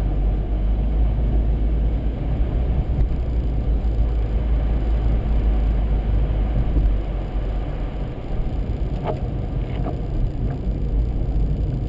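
Steady low rumble of a car driving slowly on a snowy highway, heard from inside the cabin, with two faint clicks about nine and ten seconds in.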